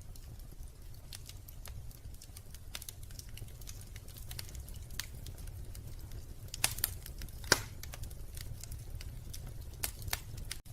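Wood fire crackling in a fireplace: irregular small pops and snaps, with two louder pops a little past the middle, over a low steady rumble.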